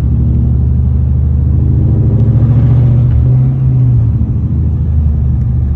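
2004 Ford Mustang GT's straight-piped 4.6-litre V8 running, a loud deep exhaust drone that swells a little and briefly shifts in pitch about three seconds in.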